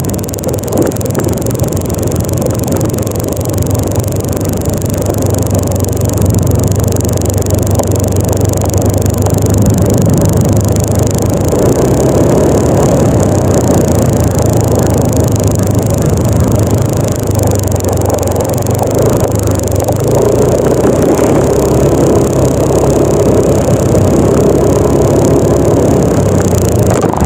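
Yamaha NMAX 155 scooter's single-cylinder engine running steadily under way, with a low hum and a rumble of road and wind noise.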